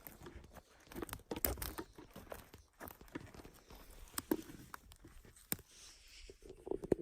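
Irregular crunching and rustling footsteps on the forest floor, with twigs snapping and dry leaves and debris crackling underfoot.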